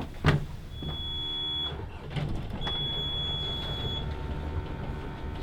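Two sharp clicks, then two long, steady, high-pitched electronic beeps, the second longer than the first, over a steady low rumble.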